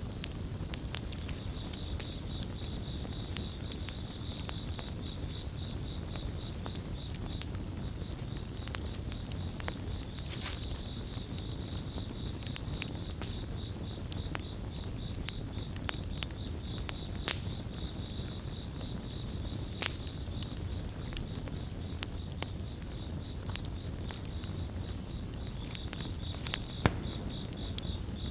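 Campfire crackling, with irregular sharp pops and snaps over a low rumble of burning wood, and crickets chirping in a steady pulsing trill that fades in the middle and comes back near the end.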